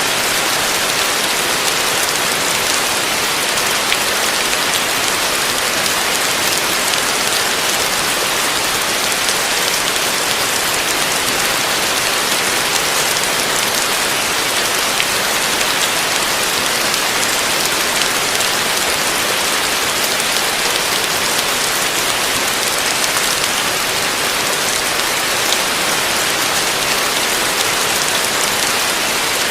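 Heavy rain falling steadily: an even, unbroken hiss with fine drop patter, without thunder.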